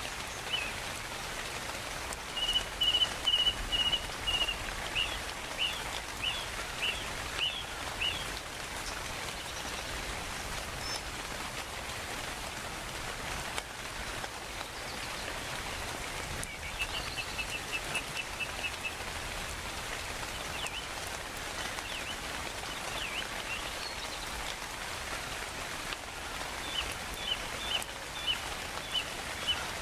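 Steady rain falling, with birds calling over it: a fast run of short repeated notes about two and a half seconds in, then a string of separate chirps, the same pattern again around halfway, and more chirps near the end.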